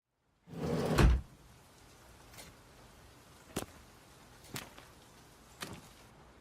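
A door opens with a heavy thump about a second in, followed by four footsteps at an unhurried pace, about one a second.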